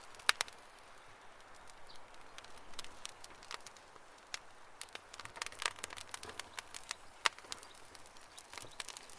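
Campfire crackling: wood snapping and popping in irregular sharp pops over a soft hiss of burning. A loud pop comes about a third of a second in, a dense run of pops around the middle, and another loud pop a couple of seconds from the end.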